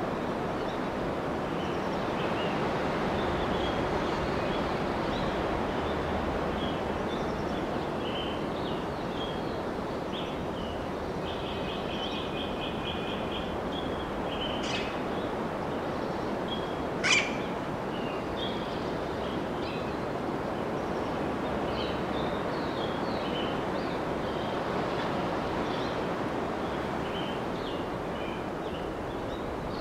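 Small birds chirping and singing over a steady rushing background noise, with a quick trill a little before the middle. Just past the middle comes one sharp, very brief high sound, the loudest moment.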